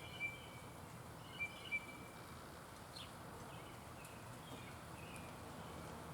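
Wild birds calling: short whistled notes, three louder ones in the first two seconds, then a few fainter ones, over steady outdoor background noise.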